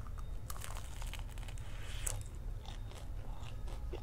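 A bite into a deep-fried sausage coated in crushed instant noodles, then chewing, with irregular crisp crunches of the fried noodle crust.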